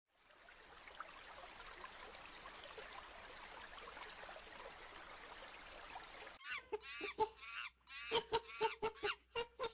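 Faint hiss for most of the time, then, about two-thirds of the way in, a bird starts giving short, repeated calls, about three a second, that grow louder.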